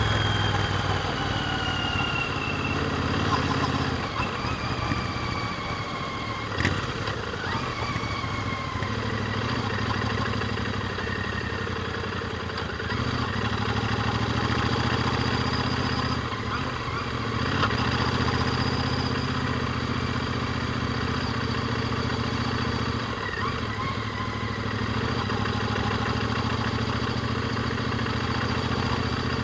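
Royal Enfield Interceptor 650's parallel-twin engine running through its stock exhaust while being ridden, the engine note dipping briefly several times.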